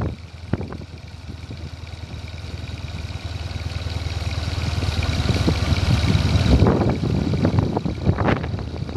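Motorcycle riding with wind buffeting the microphone: a low engine rumble under rushing wind that grows steadily louder over several seconds, then eases off near the end.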